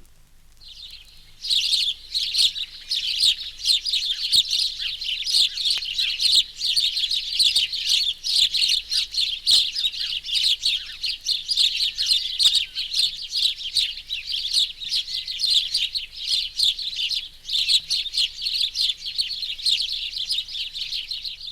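A flock of house sparrows chattering together at a communal roost: many birds chirping at once in a dense, continuous chorus that starts about a second and a half in.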